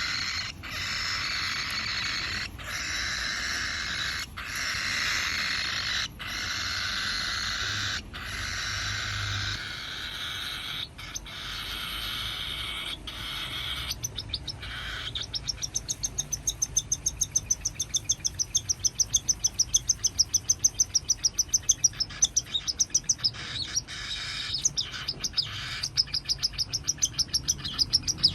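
Month-old cockatiel chick begging for food: long raspy, hissing calls about two seconds each, then from about halfway a fast run of short chirps, about six a second.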